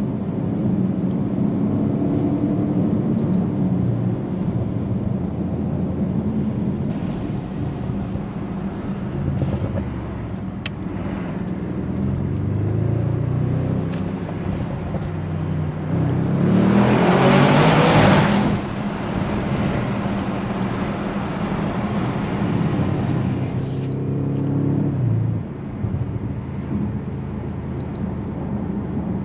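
Audi S8 Plus's twin-turbo 4.0 V8 running hard under acceleration, its pitch rising in steps through the gears. A loud rushing noise swells for about two seconds midway. The engine note drops off near the end as the throttle is released.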